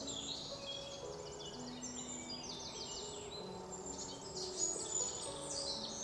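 Small songbirds chirping and trilling, in quick overlapping calls with several fast rattling trills, over soft background music of held low notes.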